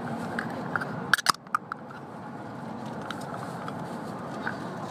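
Steady running noise inside the passenger cabin of a W7 series Shinkansen train in motion, with a few sharp clicks about a second in.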